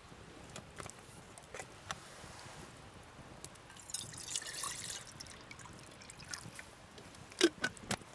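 A short pour of liquid about four seconds in, among scattered small clicks and knocks. Two sharp knocks come near the end.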